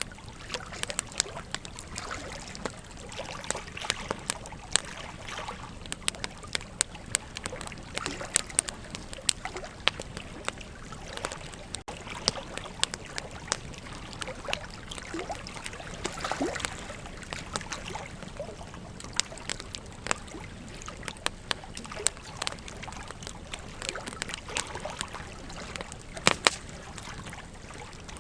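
Wood campfire crackling, with sharp irregular pops several times a second over a steady rushing background of flowing river water.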